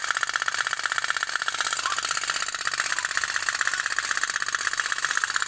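Tin pop-pop boat (kapal otok-otok) running: its small steam boiler's diaphragm pops in a fast, steady rattle.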